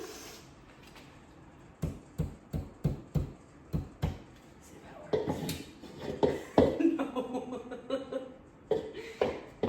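Hammer tapping a nail into a wall: about seven quick, sharp taps a third of a second apart, stopping about four seconds in.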